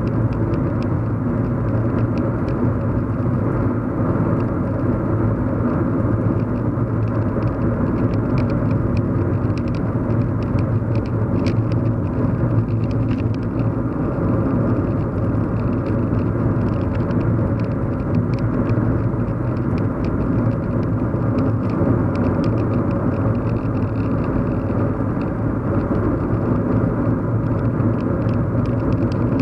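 Steady low hum of a car driving, heard from inside the cabin: road and engine noise with a strong low drone and faint scattered light ticks.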